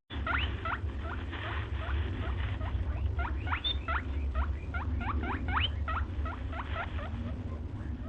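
A rapid series of short, squeaky chirps, each rising quickly in pitch, several a second, from a small animal or bird, over a steady low rumble.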